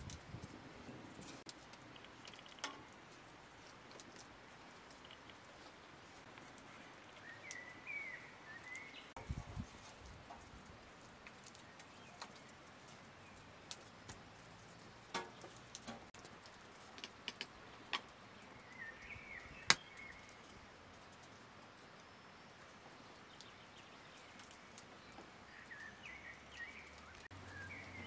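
Quiet outdoor ambience with a bird chirping briefly three times, and scattered faint ticks and knocks, the sharpest a little past the middle.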